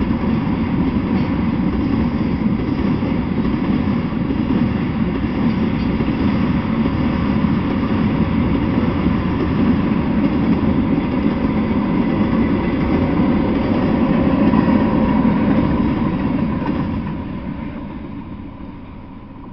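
Freight train of tank cars rolling past on the rails, a steady rumble and clatter of wheels on track, fading over the last few seconds as the end of the train goes by.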